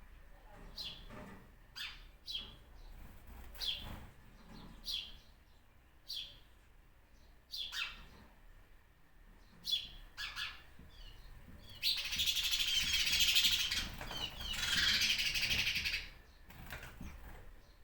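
Birds chirping: a short, falling call repeated about once a second, then about twelve seconds in a loud burst of rapid, dense chattering that lasts some four seconds.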